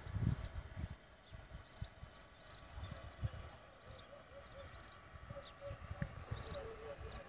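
Small birds chirping, with a quick series of short high calls again and again. Gusts of wind buffet the microphone, strongest at the start.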